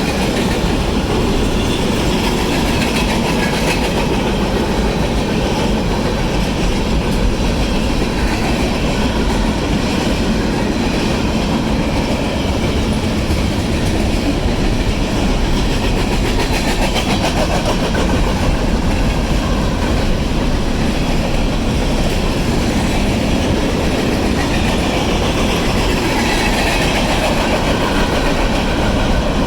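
Union Pacific manifest freight train rolling past, a steady loud rumble of its cars with the clickety-clack of wheels over rail joints.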